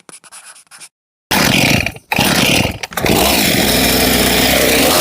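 Engine-driven firewood-cutting machinery running loud, starting abruptly about a second in after a few faint scratching sounds, with two brief dips soon after.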